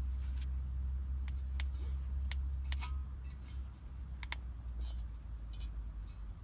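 Wood campfire crackling, with irregular sharp pops and snaps over a low rumble that fades a little before halfway through.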